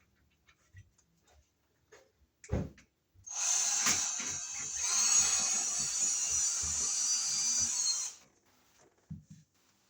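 Power drill running for about five seconds, with a knock just before it starts.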